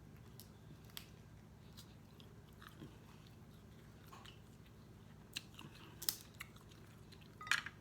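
Quiet close-miked eating sounds: a person chewing and biting food. Sharper clicks and crackles come in the last few seconds.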